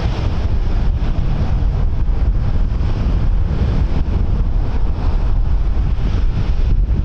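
Strong wind buffeting the microphone: a loud, unsteady rumble heaviest in the low end, with no clear engine tone.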